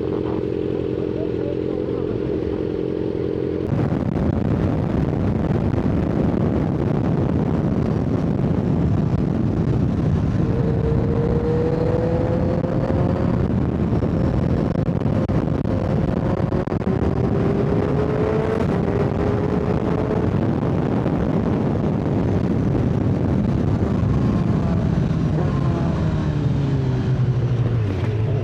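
Sport motorcycle riding on the highway, heard with heavy wind and road noise. The engine holds a steady note at first, then the wind noise jumps up about four seconds in. The engine pitch climbs in several rising pulls through the middle and falls away near the end as the bike slows.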